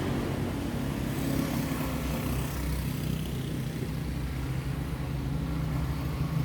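Steady low rumble of motor-vehicle traffic, with an engine hum underneath.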